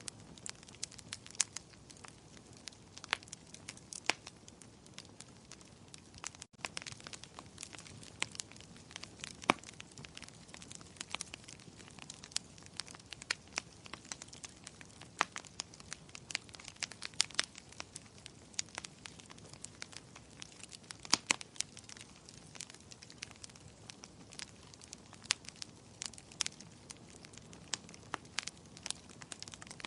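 Wood fire crackling: irregular sharp pops and snaps, several a second and some much louder than others, over a soft steady hiss of burning.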